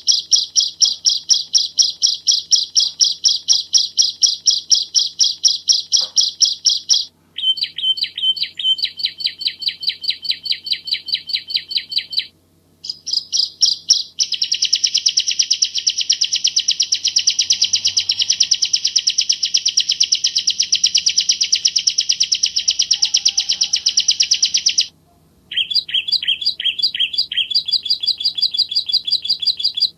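Bar-winged prinia (Javan ciblek) singing: fast runs of sharp, high repeated notes, several a second, breaking off briefly three times. The middle run becomes a dense, continuous trill.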